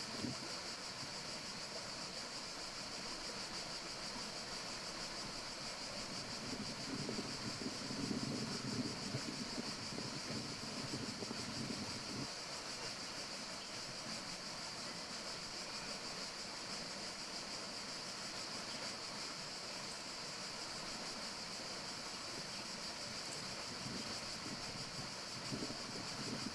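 Forest ambience: a steady high-pitched hiss with soft gusts of wind in the leaves, the gusts strongest about eight to ten seconds in and again near the end.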